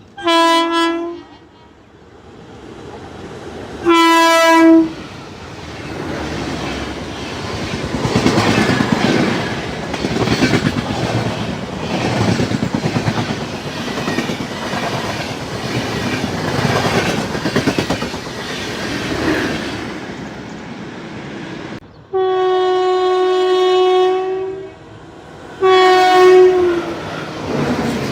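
A locomotive horn gives two short blasts, then a train passes with the rhythmic clickety-clack of wheels over rail joints, and then the horn sounds twice more, first long and then short.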